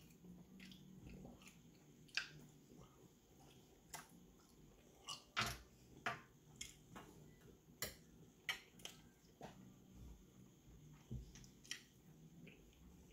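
A person chewing and lip-smacking while eating barbecue chicken wings. The sound is a scattered string of short, wet smacks and clicks, the loudest about five and a half seconds in.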